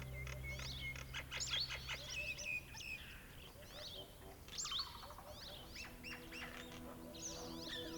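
Songbirds singing: many quick down-slurred chirps and whistles, with a rapid run of repeated notes about a second in. Soft background music fades out in the first couple of seconds.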